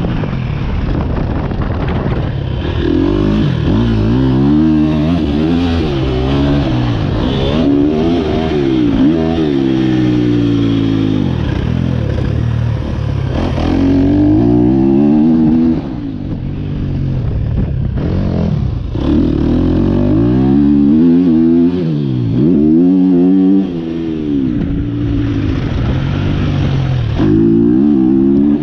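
A 2023 KTM 250 SX-F's single-cylinder four-stroke engine, breathing through an Akrapovic Evolution Line exhaust, is ridden hard on a motocross track. It revs up and drops back over and over as the rider accelerates, shifts and rolls off the throttle between sections.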